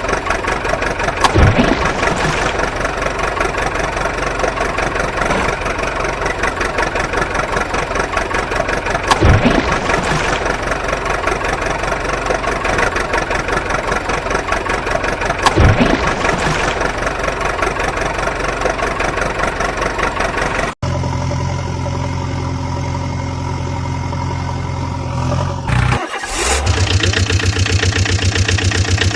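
Engine running steadily, with three short falling sweeps in pitch along the way. About two-thirds through the sound cuts abruptly to a different, lower steady engine note, which shifts again shortly before the end.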